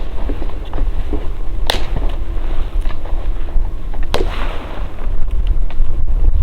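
Three sharp cracks about two seconds apart, with fainter clicks between them, over a steady low rumble of wind on the microphone.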